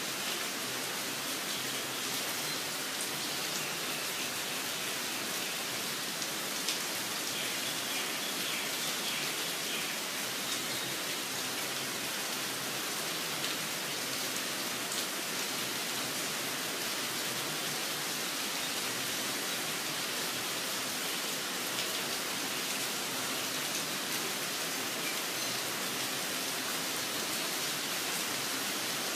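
Steady rain falling, with a few faint bird chirps about a quarter of the way in.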